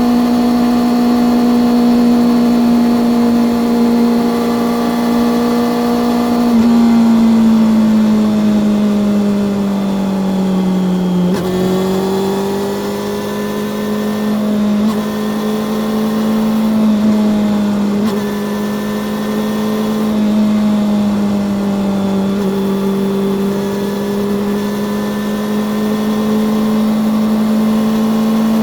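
Honda CB400SF Revo's inline-four engine and exhaust running steadily on the road. Its pitch drops gradually for a few seconds as the bike slows, then picks back up and holds nearly level with small rises and dips in the throttle.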